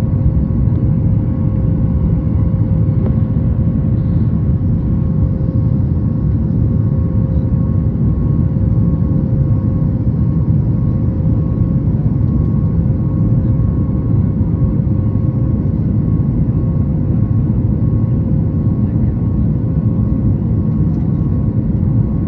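Steady cabin roar of a Boeing 737 MAX 8 climbing after takeoff: its CFM LEAP-1B turbofans and the rush of air, heard from inside the passenger cabin, with a faint steady hum above the roar.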